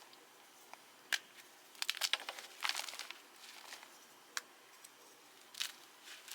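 A fresh block of Cap gym chalk being crushed, giving crisp, irregular crunches and crackles in scattered clusters. The block breaks up easily.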